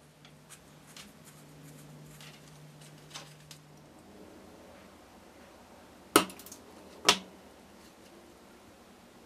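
Small hard parts being handled on a work surface: faint light ticks, then two sharp clicks about a second apart, the first followed by a brief small rattle.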